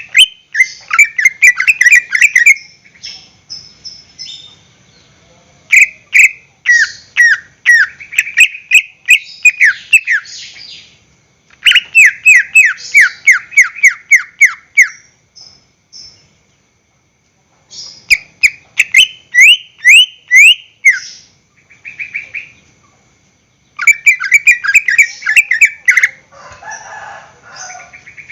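Greater green leafbird (cucak ijo) singing loudly in bursts of a few seconds: rapid strings of chirps and quick down-slurred whistles, with short pauses between phrases. A rougher, harsher note comes near the end.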